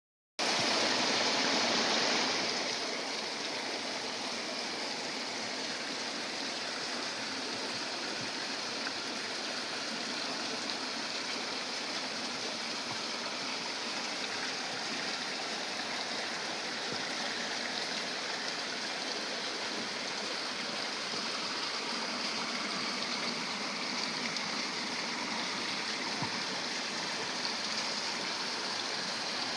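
Flowing water running steadily, a little louder in the first two seconds.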